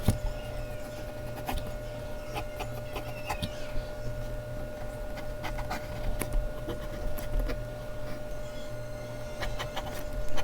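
Mechanical pencil scratching on Bristol paper in short, quick strokes and taps, over a steady electrical hum.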